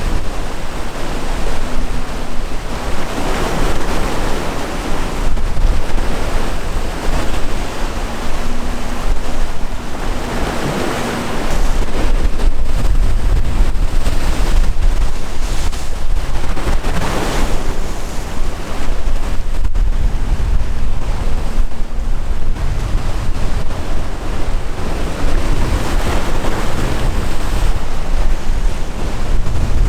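Sea waves breaking and washing ashore in surges every few seconds, with strong wind buffeting the microphone in a heavy low rumble that gets stronger about a third of the way in.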